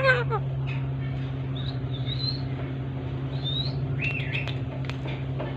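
Ringneck parakeet giving a few short whistled chirps, the clearest one about four seconds in rising then falling, over a steady low mechanical hum.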